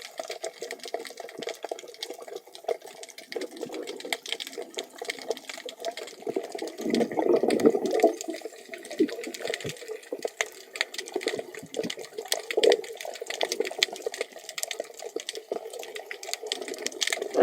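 Water noise, muffled, with a constant crackle of short clicks and a louder surge about seven seconds in.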